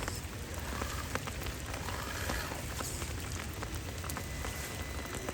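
Steady rain falling, an even hiss with scattered ticks of individual drops, over a low rumble.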